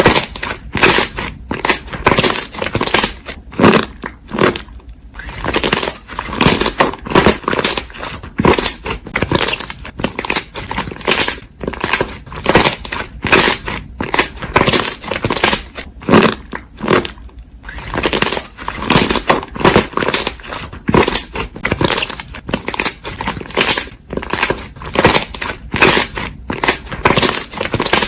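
Slime being squished and pressed by hand: short wet crackling squishes repeated about twice a second.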